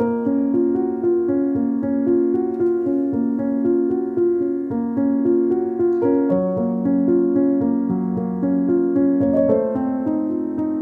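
Background piano music: a gentle repeating pattern of notes, with a low bass note held under it in the second half.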